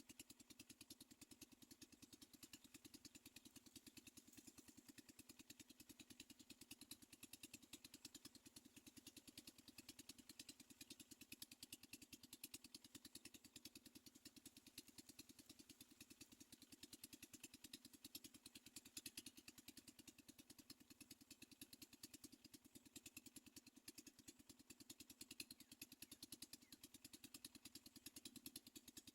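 Near silence: a faint, steady, fast pulsing hum.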